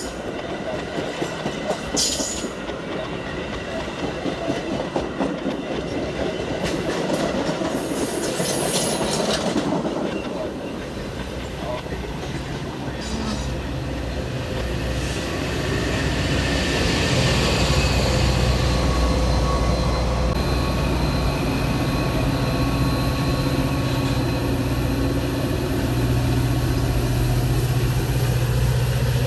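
A train rolling past on the rails, with wheel clatter, clicks and some squeal. In the second half a low, steady diesel locomotive engine drone grows louder.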